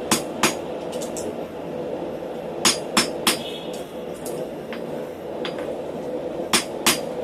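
Hand hammer striking hot steel stock on an anvil: sharp ringing blows in small groups, two at the start, three around the middle and two near the end, with a few lighter taps between, over a steady hum.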